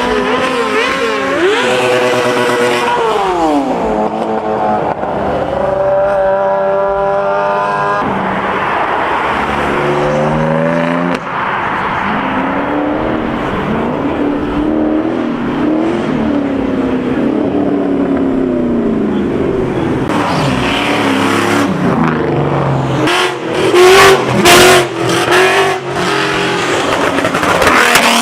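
High-performance car engines revving and accelerating past, their pitch falling, then climbing in steps as gears are run through. Near the end come several loud sharp cracks.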